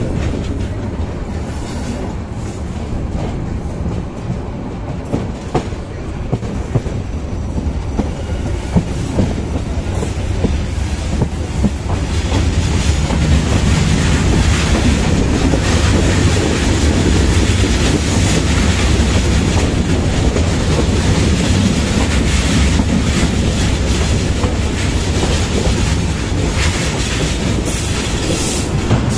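Passenger train coaches running at speed, heard from an open coach doorway: a steady low rumble of wheels on the rails with scattered rattling clicks. The rumble grows louder, with more hiss, about twelve seconds in.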